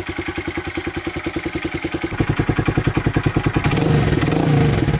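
2023 Honda Grom's single-cylinder engine idling through an aftermarket Kemimoto exhaust with the baffle (silencer) still in, its evenly spaced exhaust pulses growing louder about two seconds in, then a brief throttle rev near the end that settles back.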